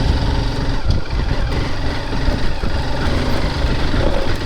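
Dirt bike engine running steadily, with a heavy low rumble.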